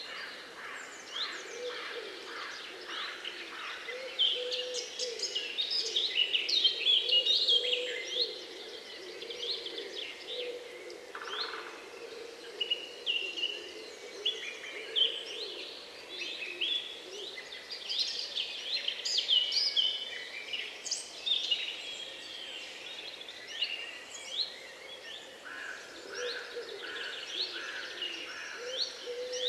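Several small songbirds chirping and singing over one another in quick, overlapping calls, with a lower call repeating at intervals beneath them.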